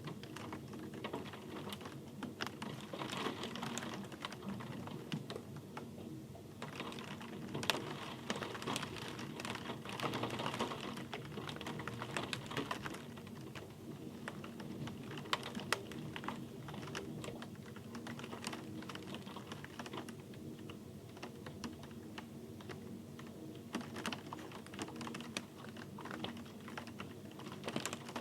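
Rain falling, with many close, irregular drop clicks over a steady patter that swells and eases at times.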